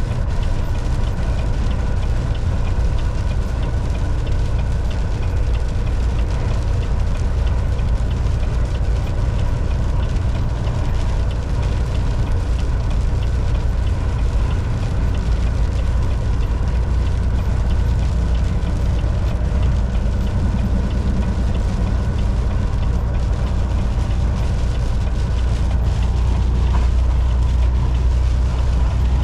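Volvo VNL 760 semi truck running at steady highway speed: a constant low engine and road rumble with a few faint steady tones above it.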